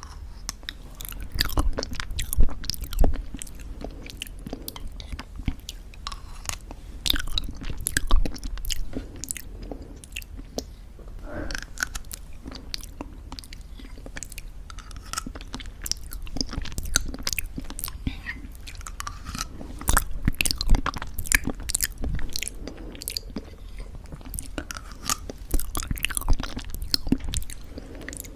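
Close-miked crunchy chewing of homemade granola mixed with thick yogurt: dense, irregular crackles and crunches with soft wet sounds.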